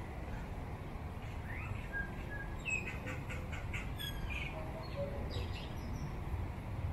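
Small birds chirping, a quick run of short high notes and little glides lasting about four seconds, over a steady low background rumble.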